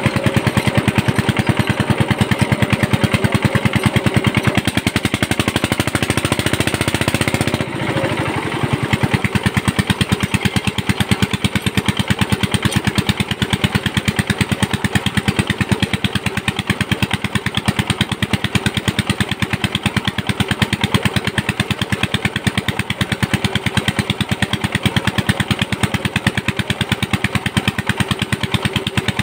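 Field Marshal 8HP single-cylinder diesel pump engine running steadily with a fast, even chugging beat, dipping briefly about eight seconds in before carrying on.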